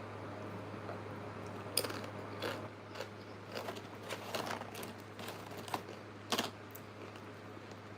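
A person eating close to the microphone: a run of crisp crunches and clicks as food is bitten and chewed over several seconds, over a steady low hum.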